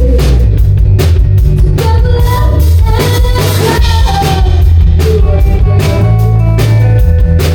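Live rock band playing loud, with drum kit and guitars.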